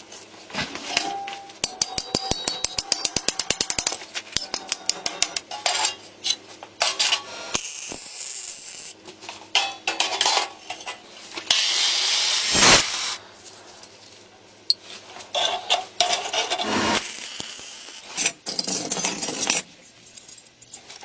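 Hand-tool work: a quick run of clicks about two seconds in, then irregular scraping and rubbing.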